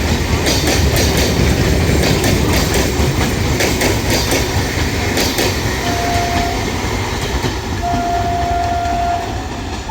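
A train running along the track with a steady rumble and the clickety-clack of its wheels over rail joints. A thin high tone sounds twice in the second half, briefly and then for over a second.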